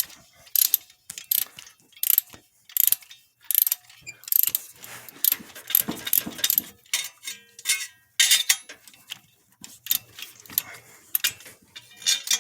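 Hand ratchet with a spark plug socket clicking in short bursts as it is swung back and forth, turning a spark plug, with brief pauses between strokes.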